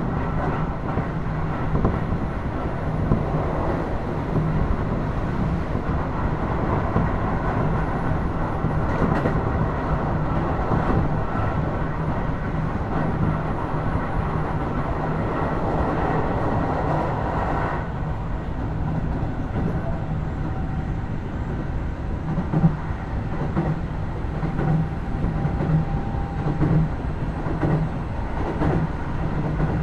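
Keio Series 5000 electric commuter train heard from inside motor car DEHA5282 while running: a steady rumble of wheels and running gear on the rails. About 18 s in, the higher part of the sound drops away and the level falls a little. A few louder knocks come in the last third.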